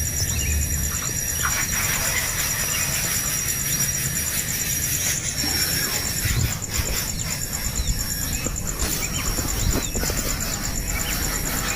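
Young birds giving short high chirps over a constant noisy background, with a steady high pulsing buzz throughout.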